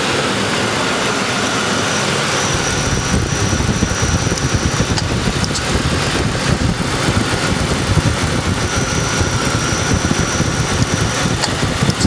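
1995 Lincoln Town Car's 4.6-litre V8 idling with the air conditioning on during a refrigerant recharge. A heavier, uneven low rumble comes in about two and a half seconds in. This fits the A/C compressor kicking on and loading the engine. The compressor is short-cycling on its low-pressure switch because the system is still low on refrigerant.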